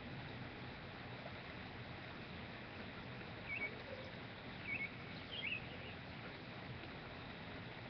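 A bird giving a few short, high chirps a second or so apart, midway through, over a steady background hiss.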